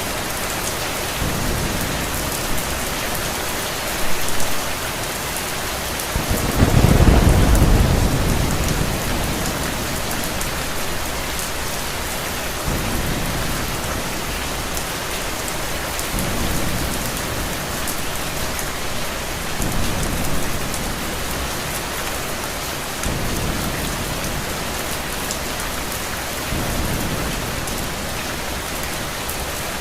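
Steady rain falling, with a loud low roll of thunder about seven seconds in and softer distant rumbles of thunder coming and going.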